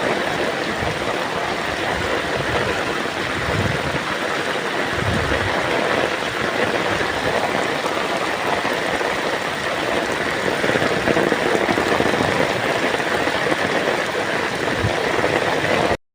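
Torrential rain pouring down in a steady, dense hiss, with a few low rumbles, cutting off suddenly near the end.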